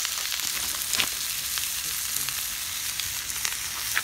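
Steady sizzling hiss with a few sharp pops, from food cooking over a wood campfire.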